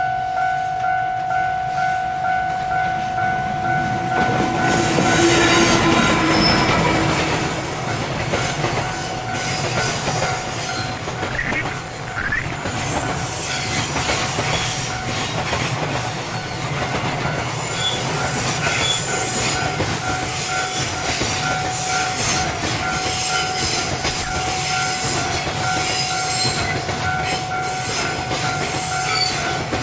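Japanese level-crossing warning bell ringing in a steady pulsing ding-ding. From about four seconds in, a long train passes over the crossing: wheels rumbling and clattering over the rail joints with some wheel squeal, loudest a few seconds later, while the bell keeps ringing.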